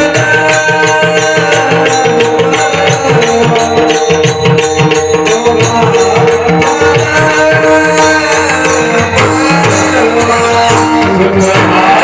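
Devotional kirtan music: tabla drumming a quick, even rhythm under steady held melodic notes, with jingling percussion.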